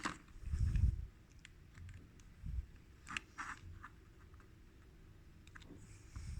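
Light clicks and taps of small parts being handled during reassembly of a CD player mechanism, with a low bump in the first second and a pair of clicks about three seconds in.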